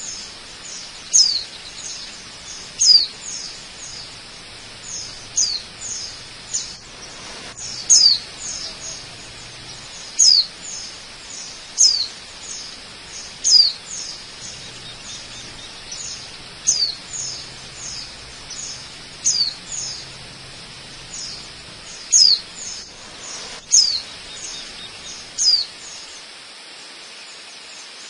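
A bird calling over and over, a short high chirp sliding downward about every second and a half with softer chirps in between, until the calls stop near the end. Beneath it runs the steady rush of a waterfall.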